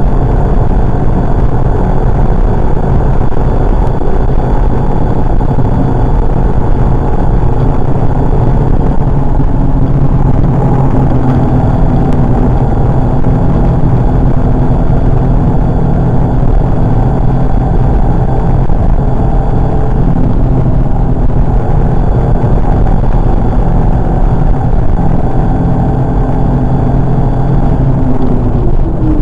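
Volkswagen Golf 5's 1.4 TSI turbocharged four-cylinder engine pulling hard at high revs, heard inside the cabin over road and wind noise, its pitch holding fairly steady. Right at the end the revs fall away as the driver lifts and changes gear for the coming corner.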